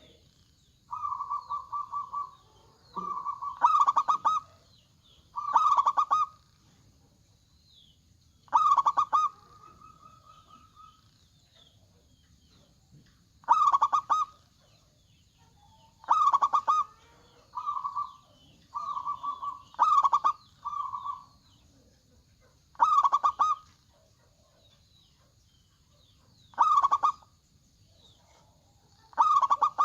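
Zebra doves (perkutut) singing: short, rolling cooing phrases pitched around 1 kHz, repeated about fourteen times with quiet gaps between them, some phrases louder and sharper than others. Faint high chirping runs underneath.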